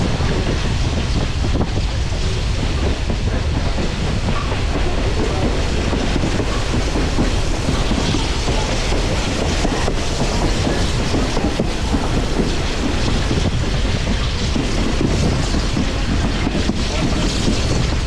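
Excursion train heard from aboard, its passenger cars rolling steadily along the track: a constant rumble and rush, with the wheels clicking over rail joints now and then.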